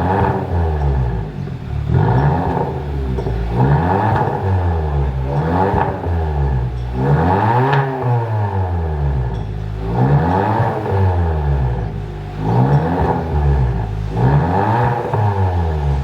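Kia K5 DL3's 1.6-litre turbo four-cylinder revved through a cat-back dual valved exhaust, the pitch climbing and falling back over and over, about every two seconds.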